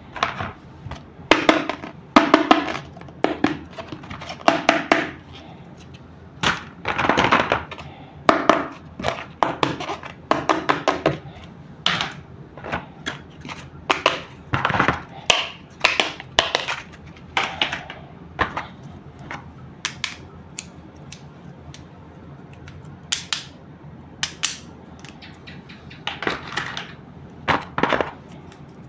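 Plastic toy parts and packaging being handled: an irregular run of sharp clicks, snaps and short rustles, with quieter stretches in between.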